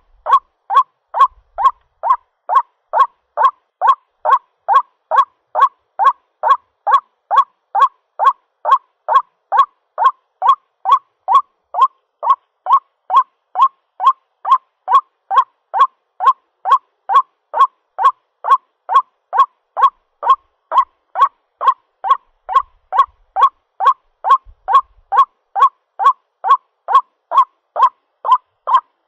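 White-breasted waterhen (ruak-ruak) calling, a loud, even string of short notes at about two a second, the bird's mate-calling call used as a lure.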